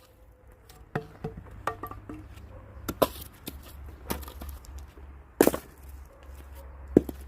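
Axe splitting firewood: four sharp strikes on wood a couple of seconds apart, the loudest about five and a half seconds in, with smaller knocks of wood between.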